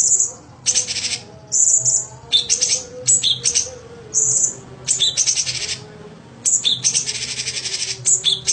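A cucak cungkok (a leafbird) singing a fast, varied song. It mixes short high whistled notes with harsh, buzzy, rapidly pulsed chattering phrases, and the longest run of chatter comes near the end.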